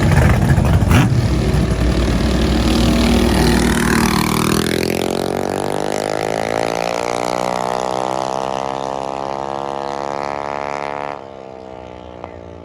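A vehicle engine passing loud and close in the first few seconds, then running on with its pitch falling slowly as it pulls away, until it drops off sharply near the end.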